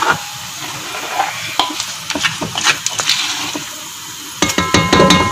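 Wet ground masala paste of garlic, ginger, chillies and tomato sizzling and hissing in hot oil in a pot, with a few light clicks through it.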